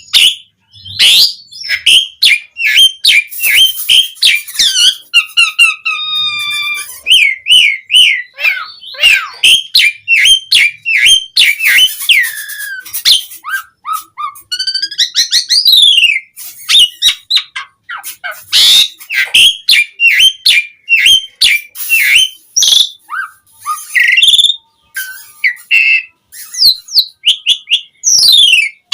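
Asian pied starling (jalak suren) in full song: a fast, unbroken stream of varied whistles, quick up-and-down glides, trills and sharp clicks, its chattering song packed with fill-in phrases.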